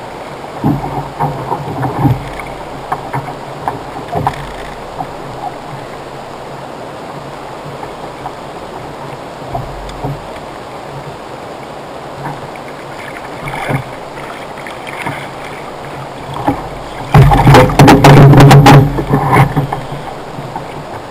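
Water lapping and wind around a fishing kayak, with scattered knocks of gear against the hull while a fish is brought in. Near the end comes a loud burst of thuds and knocks lasting about two seconds as the fish is landed.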